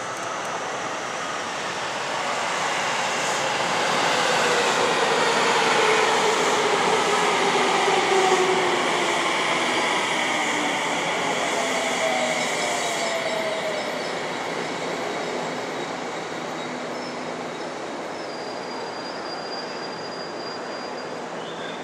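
Tsukuba Express TX-2000 series electric train pulling in, its motor whine falling in pitch as it brakes. The wheel and rail noise swells to its loudest about six to eight seconds in, then eases as the train slows, with a faint high squeal near the end.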